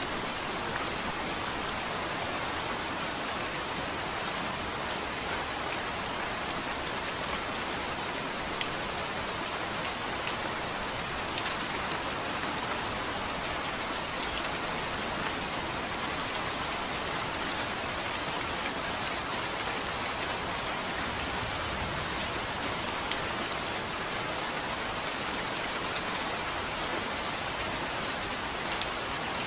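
Steady heavy rain falling on a surface, with scattered individual drops ticking sharply through the hiss.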